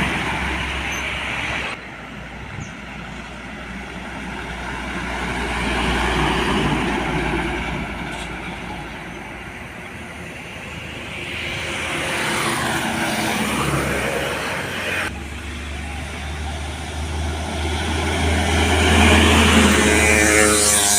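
Trucks driving past on a road, engine and tyre noise swelling and fading as each one goes by. The sound changes abruptly about two seconds in and again about fifteen seconds in.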